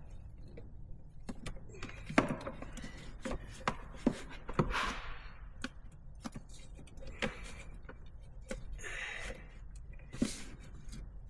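Hands working on intake parts: scattered light clicks, taps and knocks of plastic and metal pieces being handled and fitted, with two brief hissing rushes, one around the middle and one near the end.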